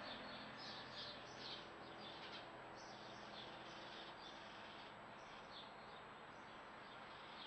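Faint, high, short chirps of small birds, repeated many times and thickest in the first couple of seconds, over a steady background hiss.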